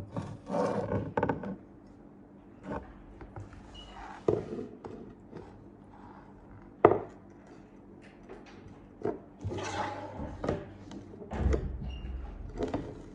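Close-miked handling of food and tableware: scattered sharp knocks and clicks with short spells of rustling, over a faint steady hum.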